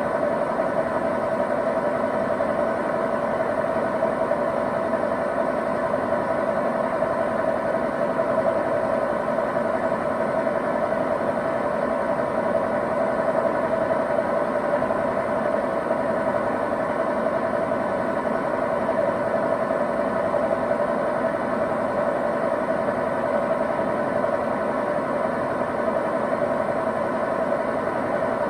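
Hoover VHD 9163 ZI front-loading washing machine in its final spin, the drum turning at a constant speed with a steady whine.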